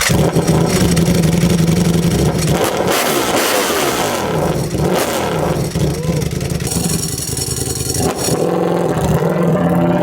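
Ducati Panigale V4 engine running through an aftermarket exhaust, held at steady revs, then blipped up and down several times in the middle before settling steady again.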